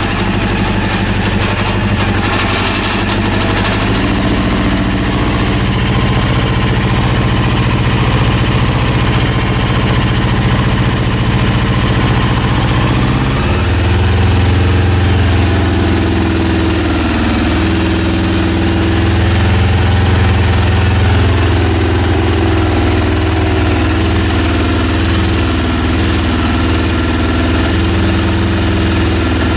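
Rebuilt Honda CB400 four-cylinder engine running at idle on a test run. Its speed steps up about four seconds in and shifts again around the middle, then wavers unevenly, which the owner puts down to a faulty carburetor set and spark system.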